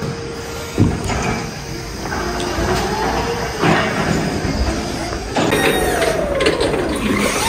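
Pallets being unloaded from a truck trailer: a sharp clunk about a second in, then metal squeals sliding up and down in pitch, twice, over a steady rumble.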